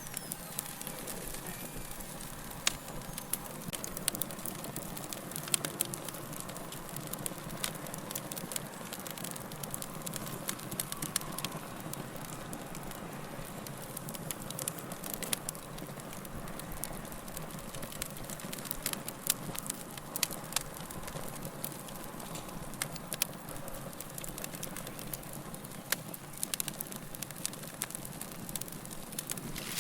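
Log fire burning with a steady low hiss and frequent irregular sharp crackles and pops of the wood.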